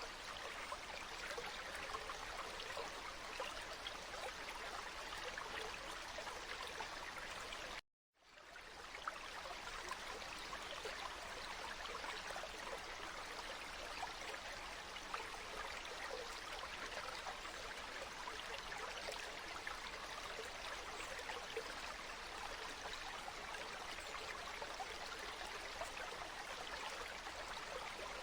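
Water flowing in a stream, a steady babbling rush with fine trickling detail. About a third of the way in it cuts out for a moment and fades back in.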